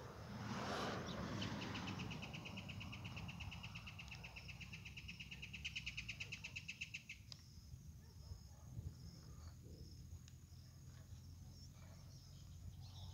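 A wild bird singing a fast, even trill of repeated high notes for about six seconds, which stops abruptly; fainter high chirps follow over a low outdoor rumble.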